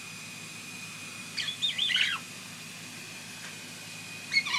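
Pet parrot giving a few short chirping calls about a second and a half in, and another brief call near the end.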